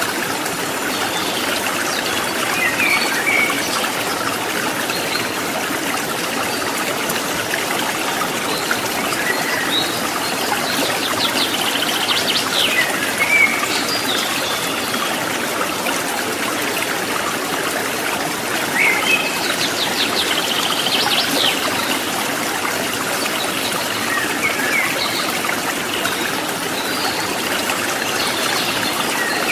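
Water trickling and babbling steadily in a stream. Birds chirp now and then over it, with rapid trills a little before halfway and again about two-thirds of the way in.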